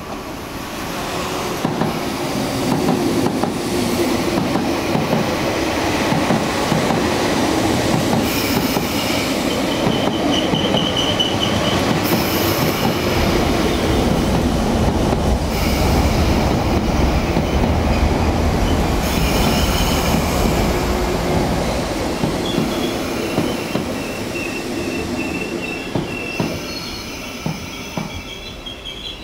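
MTR MLR (Metro-Cammell) electric multiple-unit train pulling into a station, a steady rumble of wheels on rail that builds within the first couple of seconds and eases off over the last several. High wheel squeals come through a few times as it slows, most around ten seconds in, twenty seconds in and near the end.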